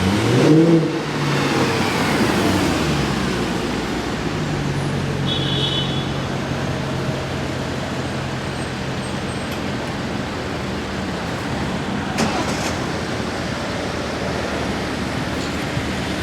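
Mercedes-AMG C63's V8 engine revving sharply at the start, its pitch sinking over the next few seconds and then holding a steady note.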